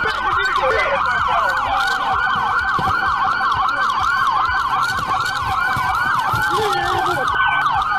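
Police car sirens in a fast yelp, about four sweeps a second, with a second siren winding slowly down in pitch.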